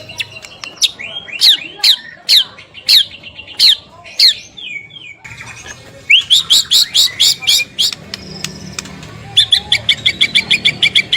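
White-rumped shama (murai batu) singing loud whistled notes that sweep sharply down in pitch. About five seconds in the song changes to a rapid string of sharp notes, and near the end to fast repeated two-pitched notes, several a second.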